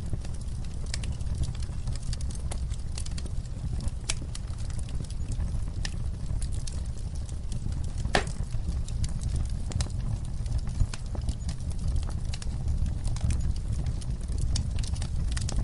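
Campfire crackling: a steady low rumble of burning wood under scattered sharp pops and snaps, with one louder crack about eight seconds in.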